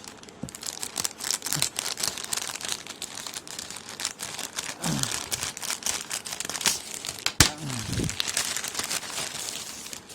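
A delivery package being opened by hand: packaging crinkling and tearing in a run of small crackles, with one sharp click about two-thirds of the way through.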